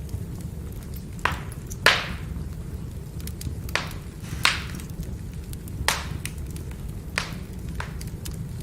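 Firewood burning: a steady low rumble of the fire with sharp, uneven crackles and pops, about seven louder pops and small ticks between them, the loudest about two seconds in.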